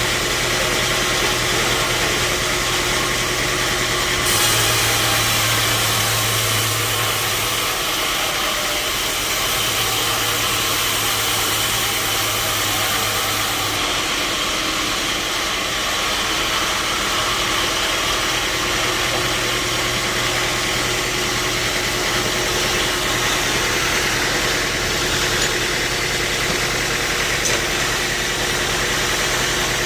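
Sawmill machinery running steadily with a low motor hum. The hum shifts a few times, and a stronger hiss runs between about four and fourteen seconds in.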